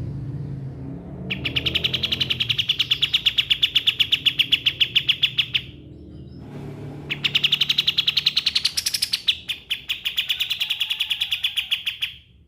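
Kapas tembak songbird singing its rapid rattling 'shooting' song: two long runs of fast repeated notes, about six or seven a second, with a short pause between them and a brief rise in pitch partway through the second run. A low rumble sits under the opening second.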